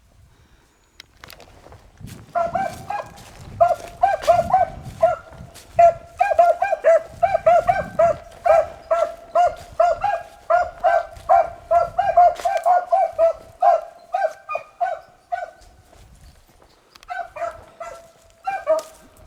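Beagles baying on a rabbit's track: a fast run of pitched, repeated calls, two or three a second. They break off about three-quarters through, then a few calls pick up again near the end.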